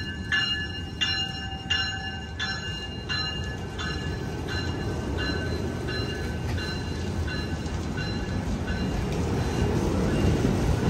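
Amtrak San Joaquin passenger train pulling out of the station: its warning bell rings about once every 0.7 s and fades away over the first six or seven seconds, under the steady rumble of the rolling train, which grows louder toward the end.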